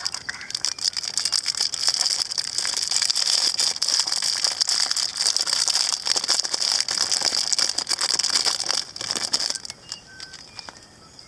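Dense crinkling and rattling as the cracked surprise egg's shell pieces and wrapping are pulled apart by hand to get at the toy inside, dying down about nine and a half seconds in.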